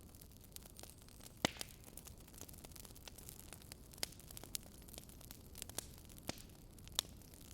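Wood fire crackling and popping in irregular clicks, with sharper pops about a second and a half in, around four seconds, and twice near the end, over a low steady rumble.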